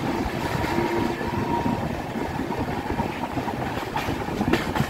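A moving passenger train running on its track, heard from an open door or window of a coach: a steady rush of wind over the microphone with the rumble of the wheels, and a few short knocks near the end.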